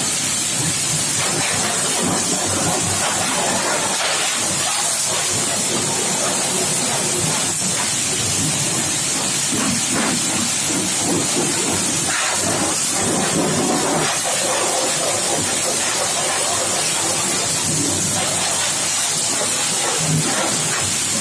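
High-pressure washer jet spraying water against a car's underside and engine parts: a loud, steady hiss that holds throughout.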